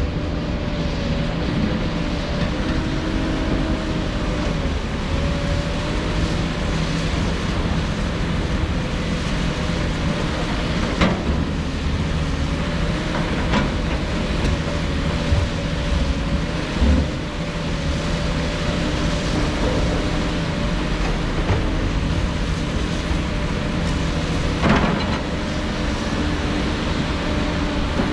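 Diesel engines of heavy earthmoving machinery running steadily under load, with a wavering hum and a few sharp knocks.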